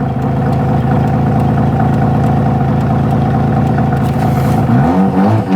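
Half-bridge-ported Mazda RX-7 FC 13B rotary engine idling with a choppy, pulsing idle, then revved up and down briefly near the end.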